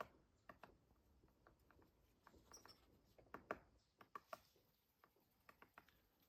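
Woodpecker pecking at a tree trunk: faint, irregular taps, some in quick clusters of two or three.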